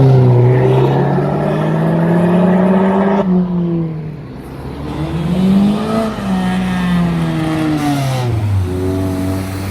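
A car engine accelerating under load. Its pitch climbs for about three seconds, drops suddenly, climbs again, then falls away over the last few seconds.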